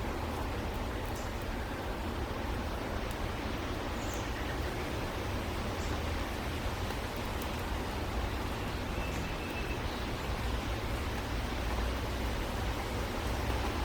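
Steady rushing outdoor background noise with a low rumble, and a few faint, brief high chirps of small birds, one about four seconds in.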